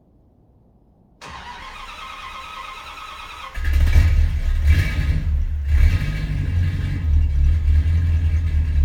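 1972 Chrysler New Yorker's 440 V8 cold-started. The starter cranks for about two seconds, then the engine catches with a jump in loudness. It runs on loud and uneven through its dual exhaust with H-pipe and Flowmaster 40-style mufflers.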